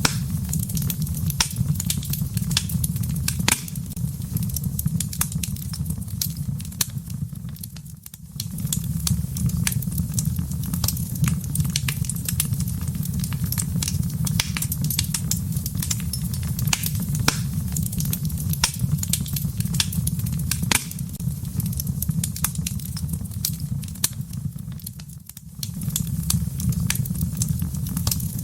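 Wood fire burning in a fireplace: a steady low rumble of flames with frequent sharp crackles and pops. The sound briefly drops quieter twice, about a third of the way in and again near the end.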